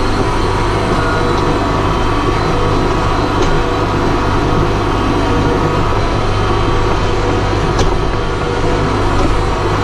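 Tractor engine running steadily under load while it pulls a chicken-litter spreader across the field, with a few light clicks.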